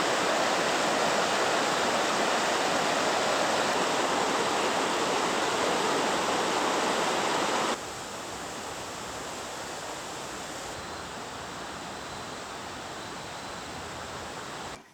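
Waterfall rushing: a steady wash of falling water that drops suddenly to a lower level about eight seconds in.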